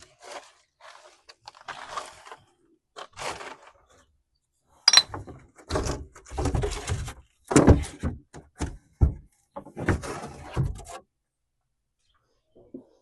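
Junk being pulled and tossed out of an old boat's interior: irregular thuds, scrapes and rustling, heaviest from about the middle of the clip, then stopping near the end.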